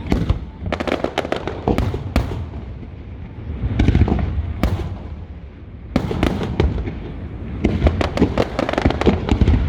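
Aerial fireworks display: shells bursting in quick clusters of sharp bangs and crackles over a low booming rumble. There are pauses of a second or two between volleys, about three seconds and six seconds in.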